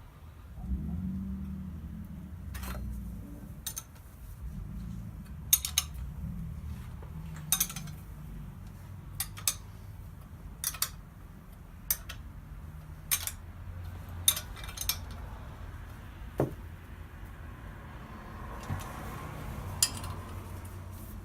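Metal tools or parts clinking as they are handled: a dozen or so sharp clinks at irregular intervals, over a low steady rumble.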